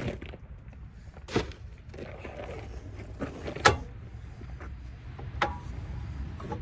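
Scattered sharp knocks and clanks of tools and parts during control arm replacement, four or five separate hits with the loudest about halfway through, over a low steady hum.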